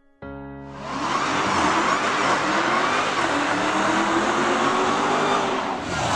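A car engine revving hard and held at high revs, coming in sharply within the first second and staying loud, with a brief dip near the end.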